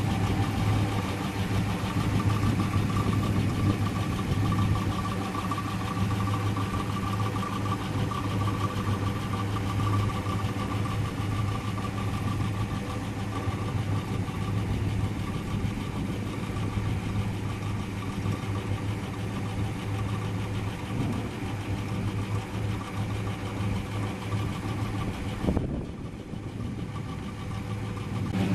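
Classic car engine running steadily with an even hum. The sound dulls for a few seconds near the end.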